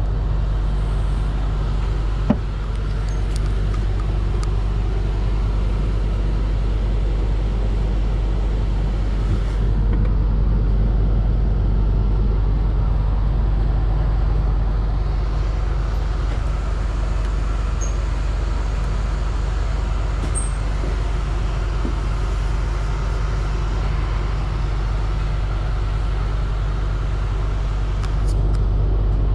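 Steady low mechanical hum of a vehicle, with a single sharp knock about two seconds in.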